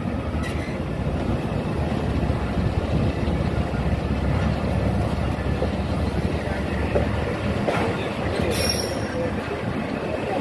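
Passenger train coaches running along the track, heard from an open coach doorway: a steady rumble and rattle of wheels on rails, with a few sharper clicks.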